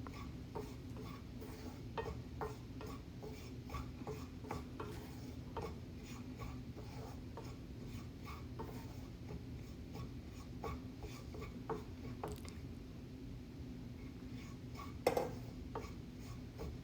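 A spatula scraping and tapping against a pan as chickpea flour is stirred and roasted in oil, in irregular short strokes over a steady low hum. A louder knock comes about fifteen seconds in.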